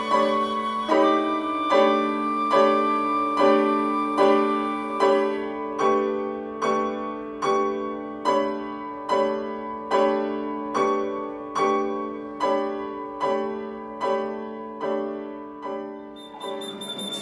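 Piano striking the same chord over and over, a little more than once a second, each chord ringing and fading before the next. The strokes slowly get softer and stop shortly before the end.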